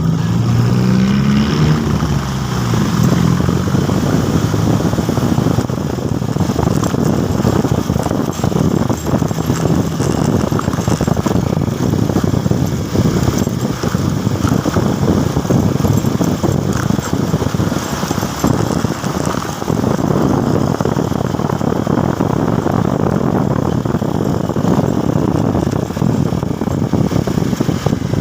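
Motorcycle running under way, its engine under a steady rush of road and wind noise. In the first two seconds an engine note rises in pitch and then fades.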